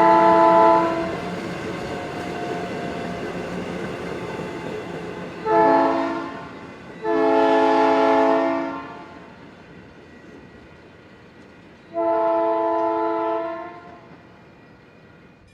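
Train air horn sounding a chord of several tones in separate blasts: one ending about a second in, a short blast about five and a half seconds in, a longer one about seven seconds in, and another about twelve seconds in. Between the blasts the train rumbles steadily on the street track, fading in the second half.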